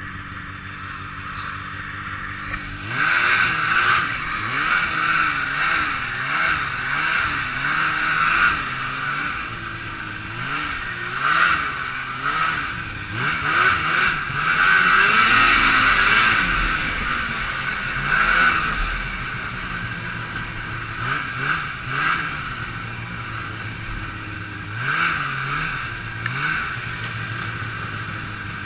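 Two-stroke snowmobile engine running fairly steadily, then from about three seconds in revving up and falling back again and again as the throttle is worked, over a steady rushing hiss.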